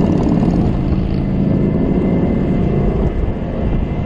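Strong gusting wind buffeting the microphone of a moving e-bike: a loud, steady low rumble.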